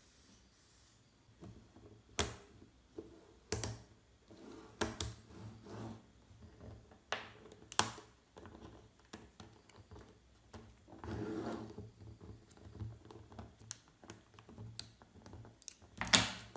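Small magnetic balls clicking as they snap together, one sharp click every second or two with softer ticks between, and a longer rattle of balls shifting about eleven seconds in.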